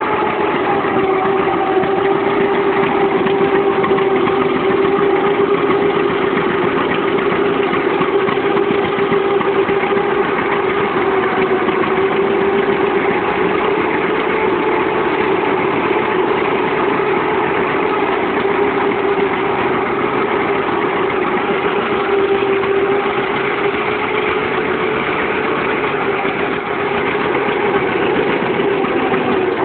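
John Deere Model D tractor's two-cylinder engine running steadily.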